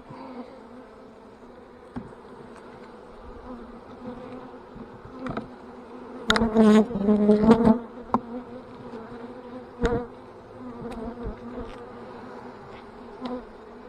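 Honeybees buzzing around an opened hive, a steady hum with a louder, wavering buzz for a couple of seconds about six seconds in as bees pass close. A few short knocks sound over the buzzing.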